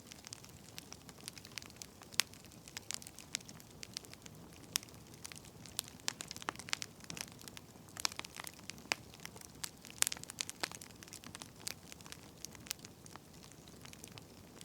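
Wood fire crackling: irregular sharp pops and snaps of varying loudness over a faint steady hiss.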